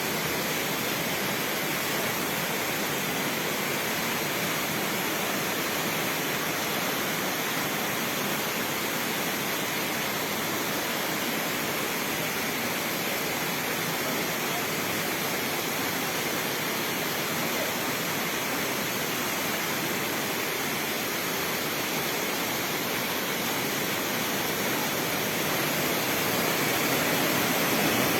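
Lotrișor waterfall pouring: a steady, even rush of falling water that grows a little louder near the end.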